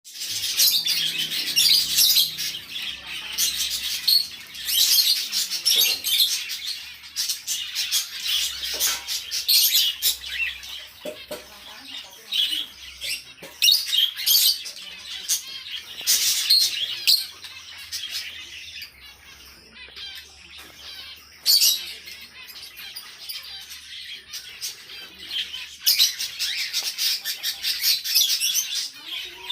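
A flock of small parrots, budgerigars and lovebirds, chirping and chattering continuously, thinning for a few seconds past the middle before picking up again.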